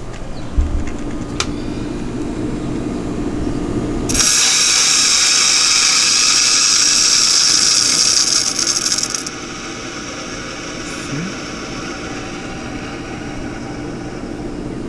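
Water supply being turned back on: after a few seconds of low hum, water rushes through the pipes with a loud hiss for about five seconds, then settles to a softer steady rush.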